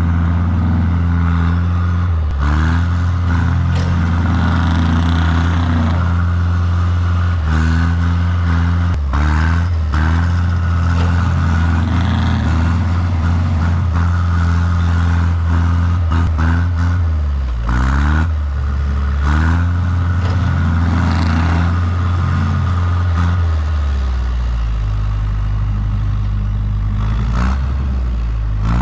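Heavy diesel engine working hard under load, pulling a stuck machine out of deep snow on a tow strap. Its pitch rises and falls repeatedly as the throttle is worked, with scattered metallic clanks.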